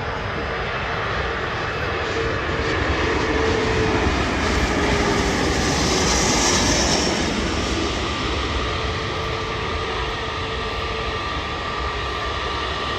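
Jet airliner engines running as the aircraft passes, a dense roar with a steady whine, growing to its loudest about halfway through and then easing off.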